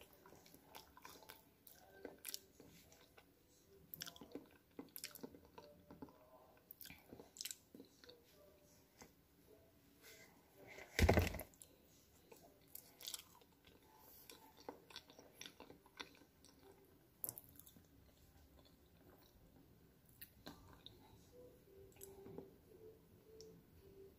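A person chewing and biting into a banana, quiet, with many short mouth clicks scattered throughout. One much louder thump comes about eleven seconds in.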